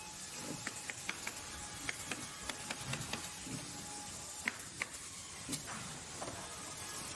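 Industrial machinery: irregular sharp mechanical clicks and knocks over a steady background noise.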